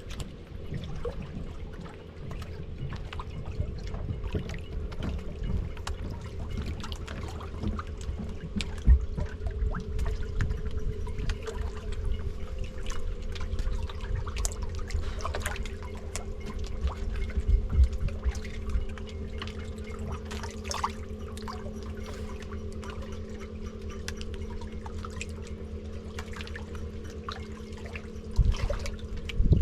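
Water trickling and lapping with many small clicks and plops, as roach take bread at the surface beside the boat. A steady low hum runs underneath.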